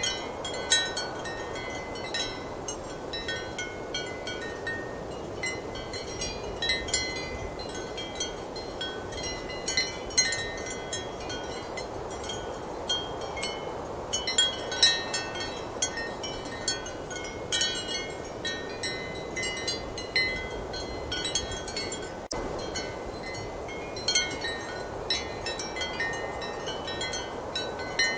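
Ceramic wind chimes clinking irregularly and often, over a steady rush of strong wind.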